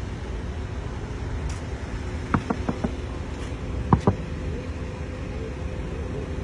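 Steady low rumble of a car engine idling, with a faint hum over it. A quick cluster of short sharp knocks comes about two and a half seconds in, and two more about four seconds in.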